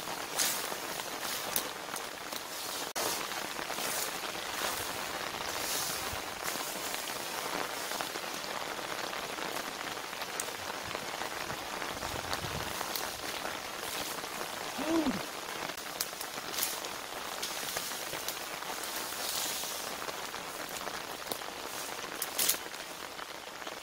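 Heavy rain falling steadily, with scattered short swishes and rustles as reeds are cut with a hand tool. One brief pitched squeak about halfway through.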